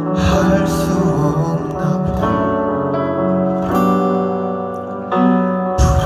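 Live band playing a pop ballad, with acoustic guitar to the fore and a bass beneath it.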